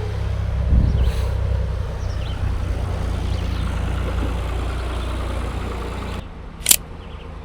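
Golf cart running steadily with a low motor hum, which stops abruptly about six seconds in, followed by one sharp swish, like a golf club swung through the air.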